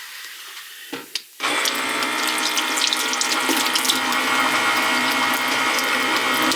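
A small battery-powered water pump switches on about a second and a half in and runs with a steady whirring hum, while water splashes into a sink. A couple of knocks come just before it starts.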